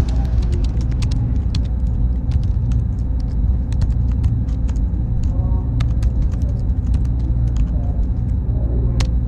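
Computer server room ambience: a steady low hum from the machines, with a faint high whine held under it and frequent scattered clicks.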